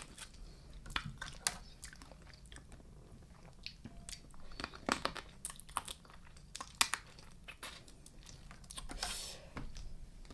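Close-miked eating: a person chewing and biting into a Thai spicy raw blue crab salad, with irregular wet crunches and mouth clicks.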